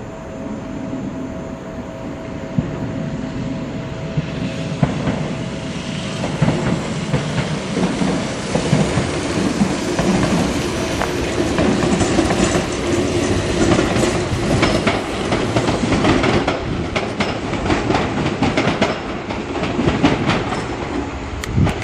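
An electric train running past, its wheels clattering over rail joints. The sound grows louder about four seconds in, with the clicks coming thickest in the second half.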